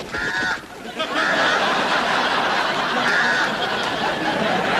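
A bird squawks shortly, then a studio audience laughs loudly as the squawking carries on.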